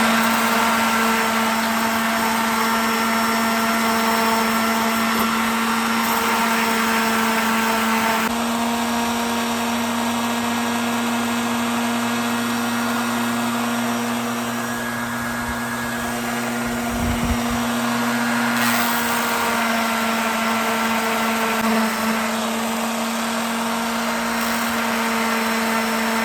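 Electric sander running steadily, taking a wooden piece down to size. Its motor note shifts slightly as the load changes, and it cuts off abruptly near the end.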